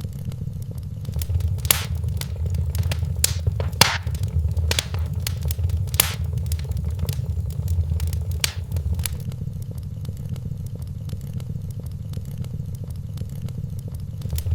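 Wood fire burning in a fireplace: a steady low rumble of flame under irregular sharp crackles and pops, which come thickly in the first half and thin out later.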